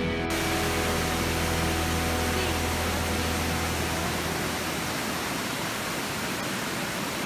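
Steady rush of water pouring from a water mill's sluice chute and spilling over the weir into the pool below.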